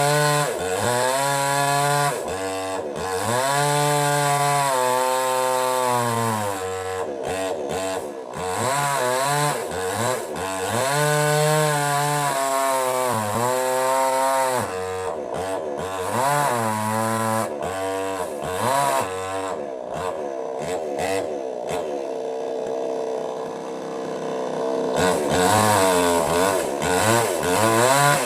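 Small two-stroke petrol chainsaw cutting wood. Its engine pitch drops under load and climbs back again and again. About two-thirds through it settles lower and steadier, then revs up again near the end.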